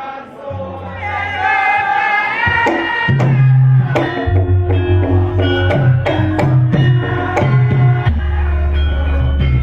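Javanese gamelan music accompanying lengger: a held, wavering sung phrase opens, then from about three seconds in the kendang drum strokes and struck bronze metallophones come in with a steady beat.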